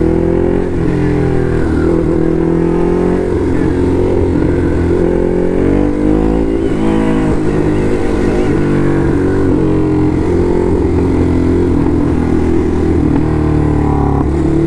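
Ducati Hypermotard SP's L-twin engine heard from the saddle while riding, revs rising and falling several times with the throttle.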